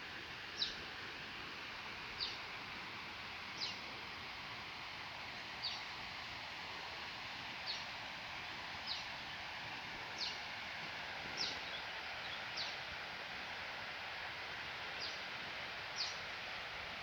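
A bird repeating a single short, high note that falls in pitch, about every one to two seconds, over a steady background hiss of forest ambience.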